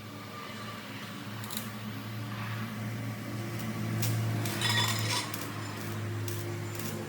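Metallic clinks and taps over a steady low hum, with a cluster of ringing clinks around the middle.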